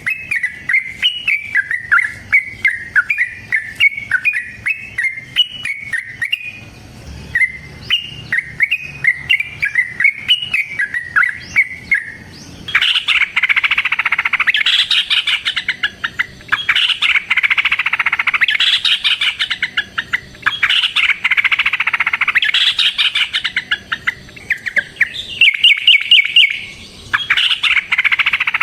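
Yellow-vented bulbul (trucukan) singing excitedly. It starts with a run of quick chirping notes, and about halfway in breaks into long, loud phrases of rapid bubbling notes with short pauses between them: the long rolling song used as a lure call.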